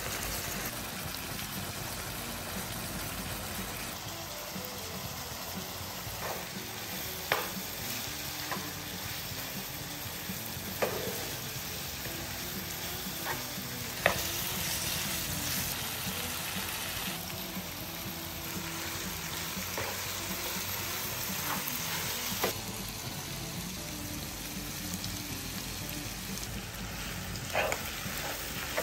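Chicken curry sizzling and frying in a non-stick pan while a spatula stirs it, with a few sharp knocks of the spatula against the pan.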